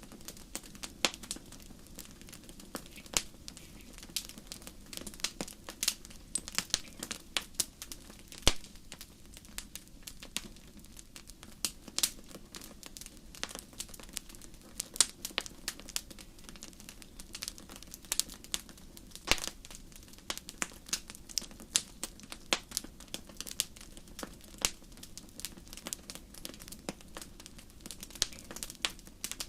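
Wood fire crackling in a fireplace: irregular sharp pops and snaps, several a second, some much louder than others, over a steady low rumble of the flames.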